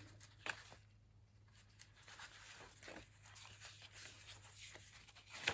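Faint rustling and soft clicks of thick paper pages being handled and turned in a handmade junk journal, with a sharper click near the end, over a steady low hum.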